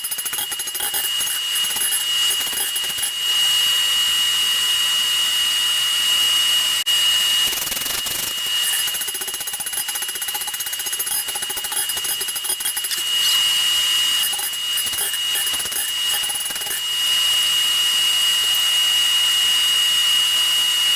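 Electric grinder running with a steady high whine over a hiss, growing louder and softer in stretches as it works the steel.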